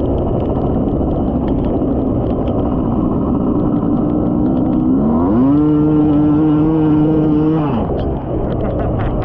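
Dirt bike engine running steadily. About five seconds in it revs up, holds the higher revs for a couple of seconds, then drops back near the end.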